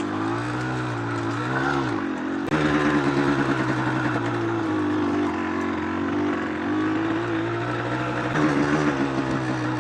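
Yamaha DT125 two-stroke single-cylinder engine under way, its note rising and falling with the throttle. The note changes sharply about two and a half seconds in, then pulls fairly steadily.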